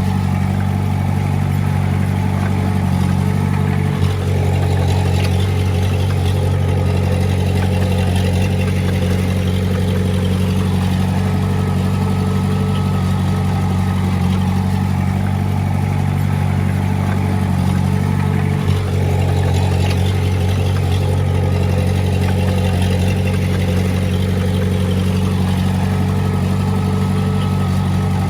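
Heavy-equipment diesel engine running steadily at a constant speed, with a low, even drone.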